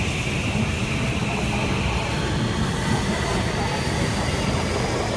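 Electric commuter train moving at the platform: a steady rumble of wheels on rail, with a faint motor whine that slowly rises in pitch from about two seconds in.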